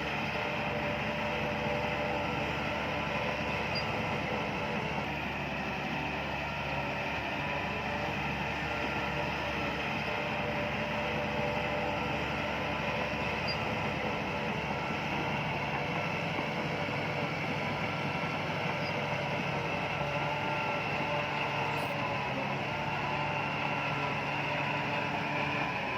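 Bulldozer's diesel engine running steadily, with an even low hum and steady tones that hardly change.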